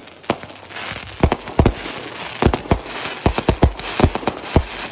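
Fireworks going off: a rapid, irregular string of sharp bangs and cracks over a steady crackle, with high whistles slowly falling in pitch.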